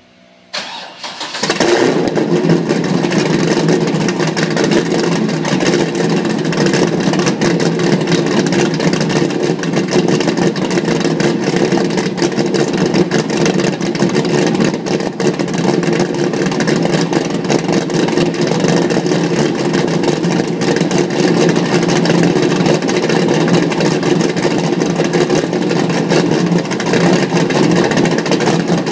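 Cold start of a 2003 Corvette Z06's naturally aspirated 427 cu in LS7 V8 through American Racing headers and a Corsa exhaust: the starter cranks briefly, the engine catches about a second and a half in, and then it settles into a loud, steady idle.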